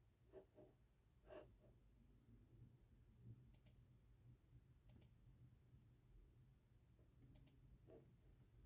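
Near silence: room tone with a low hum and a few faint, scattered clicks and taps.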